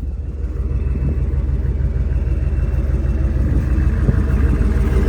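7.3 IDI turbo V8 diesel engine of a 1973 Ford F-250 running with a fast, low, even pulsing, growing slightly louder over the first second or two.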